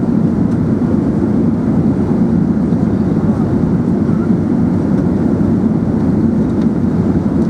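Steady low rumble of airflow and engines inside the cabin of an Emirates Airbus A380 in flight.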